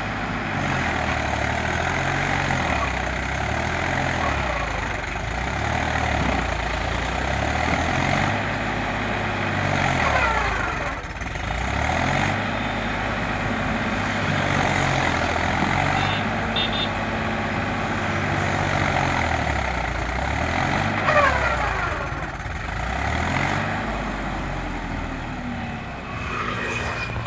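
Tractor engine running under heavy load and revving up and down over and over, its pitch rising and falling every few seconds, as the stuck tractor strains to pull free.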